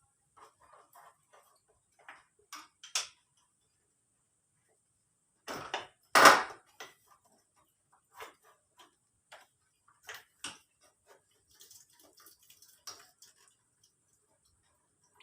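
Scattered clicks and clinks of metal hand tools and parts while a scooter engine is taken apart, with one louder clatter lasting about a second around six seconds in.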